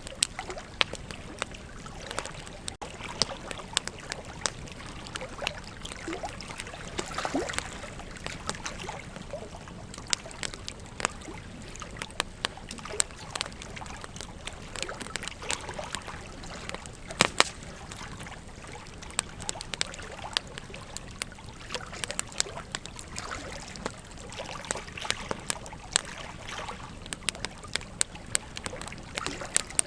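Wood fire crackling, with many irregular sharp snaps and pops over a steady rushing background of flowing river water.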